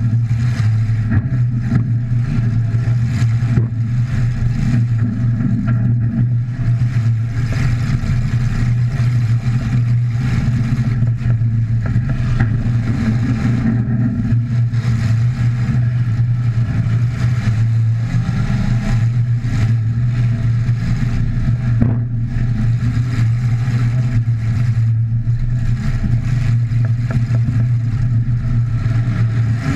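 Demolition derby car's engine running loud and fairly steady, heard from inside the stripped cab.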